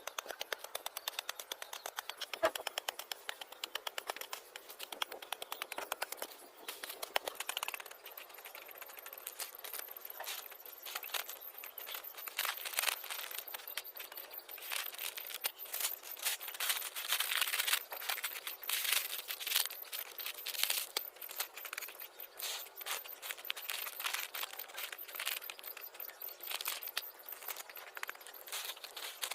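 Plastic cooking-oil packet crinkling and rustling as it is handled and filled with soil, with many small irregular clicks and crackles; rapid, even clicking in the first several seconds.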